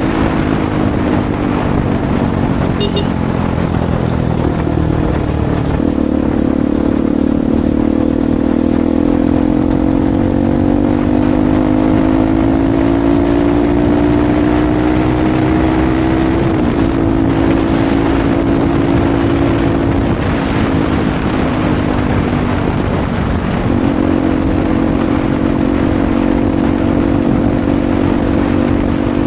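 Bajaj Pulsar NS200 single-cylinder engine running through an aftermarket Akrapovic exhaust while riding. Its pitch climbs slowly and steadily, then dips briefly three times in the second half.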